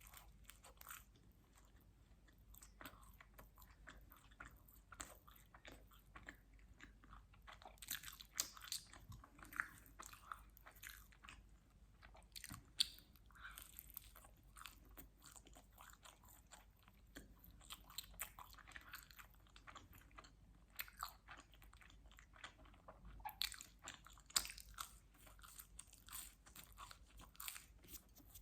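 Quiet close-miked eating of pizza: bites, wet mouth clicks and chewing with crunches of crust, coming in clusters with brief pauses between.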